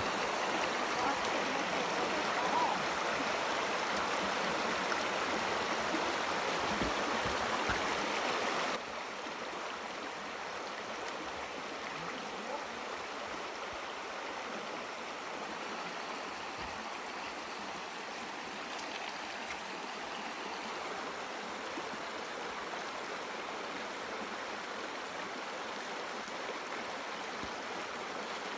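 Flowing stream, a steady rush of water. It drops suddenly to a quieter level about nine seconds in.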